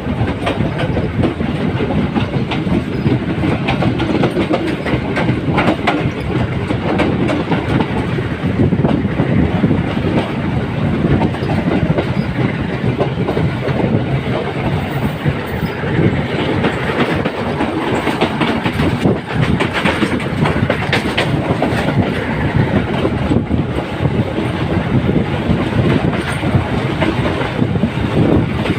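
Train running along the track, its wheels clattering steadily over the rails with a continuous rumble.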